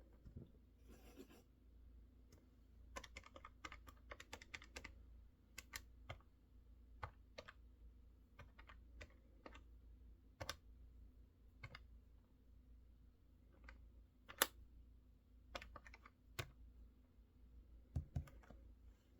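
Faint mechanical keyboard typing in short, irregular runs: a quick flurry of keystrokes about three seconds in, then scattered single key presses.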